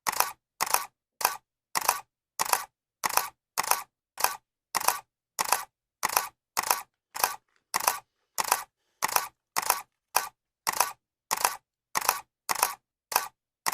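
Camera shutter clicks repeating steadily, about every 0.6 seconds. Each is a brief two-part click, with silence between them.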